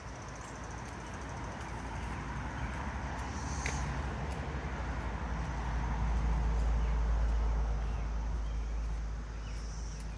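Outdoor trail ambience while walking: a low rumble that builds to its loudest about two-thirds of the way through, then eases off, with a few faint high chirps.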